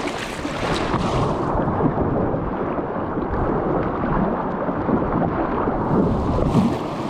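River water rushing and splashing around a kayak, a steady noisy wash with wind buffeting the microphone.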